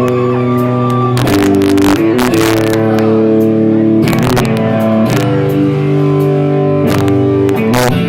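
Live band playing loud, heavily distorted electric guitar chords, held for a second or more and changing a few times, cut through by sharp crashing hits. Recorded on a cheap cell phone, so the sound is harsh and overloaded.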